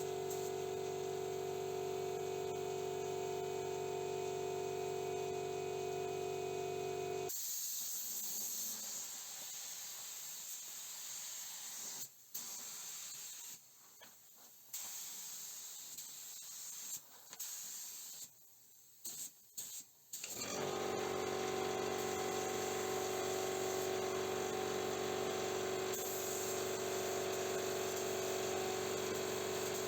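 Spray-painting equipment running: a steady mechanical hum with fixed tones stops abruptly about seven seconds in, leaving a quieter hiss of spraying air broken by several sudden cut-offs, and the hum comes back about twenty seconds in.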